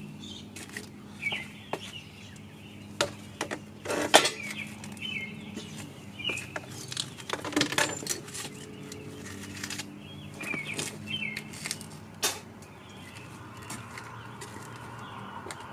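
Scattered knocks and clicks of metal engine parts and tools being handled during an engine teardown, mixed with short high squeaks and a faint steady low hum.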